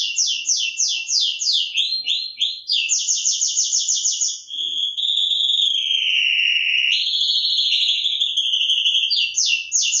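Songbird singing: a run of rapid descending whistled notes, about five or six a second, then a faster trill. About halfway through it changes to long, wavering warbled phrases that dip lower and rise again, and fast notes return near the end.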